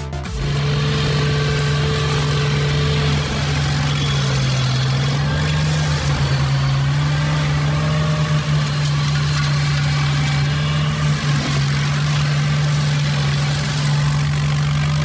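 A large engine running steadily at constant speed, an even low hum whose pitch wavers only slightly.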